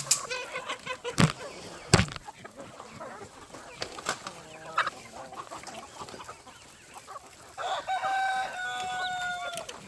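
Chickens clucking, with two sharp knocks in the first couple of seconds. Near the end a rooster crows, one long held call of about two seconds.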